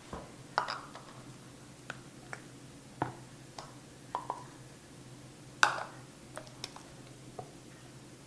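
Scattered light clicks and knocks of a kitchen utensil against a jar and measuring cup as mayonnaise is scooped out and measured, the loudest knock about five and a half seconds in.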